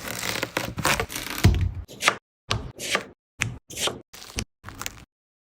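Kitchen food-preparation sounds, mainly a knife chopping on a cutting board: a quick run of sharp cuts with one heavy thump, then a string of short separate chops broken by abrupt silences.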